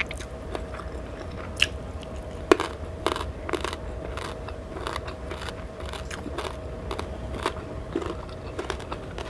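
A person biting and chewing crunchy food, with irregular crisp crunches and clicks, the sharpest about two and a half seconds in.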